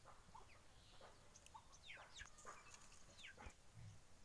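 Near silence outdoors, with a few faint, short falling bird chirps: a pair about two seconds in and another pair a little past three seconds.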